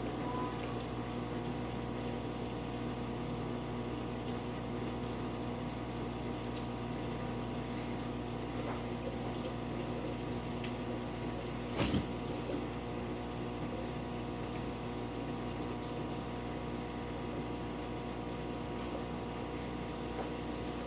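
Steady electric hum of an aquarium water pump running, with faint water sounds. One short knock about twelve seconds in.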